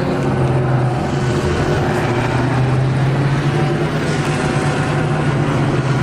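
A steady, low engine drone that holds an even level throughout.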